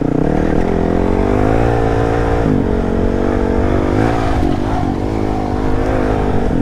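Dirt bike engine running under throttle while riding. Its pitch climbs over the first couple of seconds, drops sharply, then rises and falls again with the throttle.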